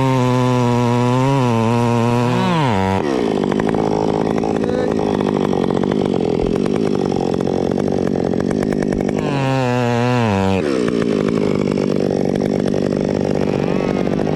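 Chainsaw running hard, its pitch wavering, then dropping sharply about three seconds in. Its pitch climbs high again around nine seconds in and falls away about a second and a half later.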